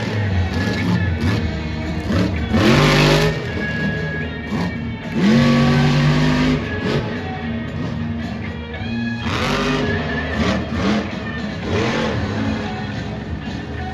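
Supercharged, alcohol-fuelled monster truck engine revving hard again and again, its pitch sweeping up and down, over loud music from the arena speakers.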